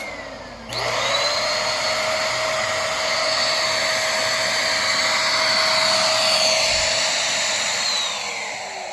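Corded upright vacuum cleaner switched on about a second in, its motor whine rising quickly to a steady high pitch and running loud. Near the end it is switched off and the whine falls away as the motor spins down.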